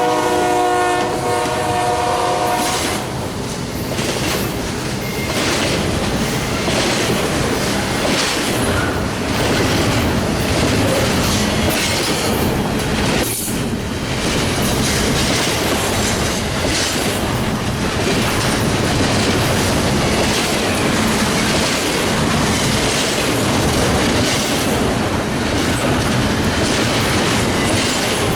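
A train passing close by: its horn sounds a chord of several notes that cuts off about three seconds in, then the cars' wheels run on, clicking steadily over the rail joints.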